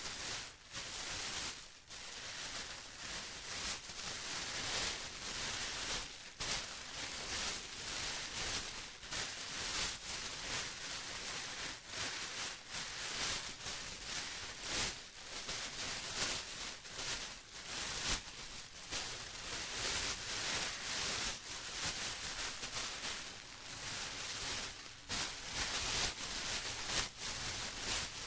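Plastic being crinkled and rustled by hand, an irregular stream of crackly, hissy surges that come and go every second or so.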